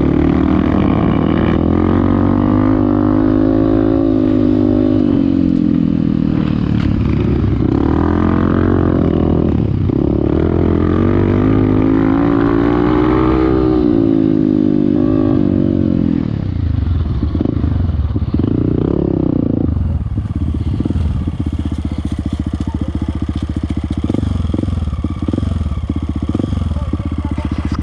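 Off-road motorcycle engine revving up and down while riding through sand, its pitch rising and falling repeatedly. After about 16 seconds the note turns lower and choppier.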